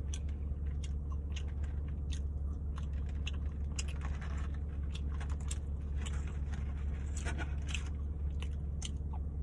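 Close-up chewing of barbecue ribs, with many short mouth clicks and smacks scattered irregularly over a steady low hum.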